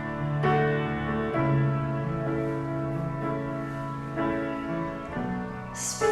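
Instrumental worship music: piano or keyboard playing slow, sustained chords that change about every second, with a short hiss near the end.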